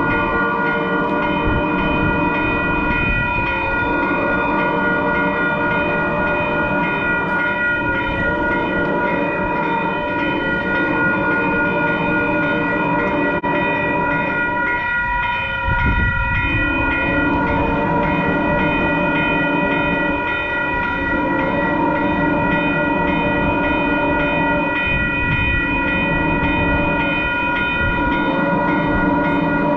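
Passenger train passing close by, its horn sounding in long held blasts over the rumble of the train.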